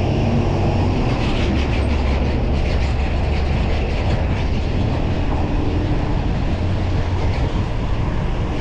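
Steady low rumble of wind on the microphone and tyre noise from a fixed-gear bike riding at speed. A run of faint rattling ticks comes in about a second in and fades out around four seconds.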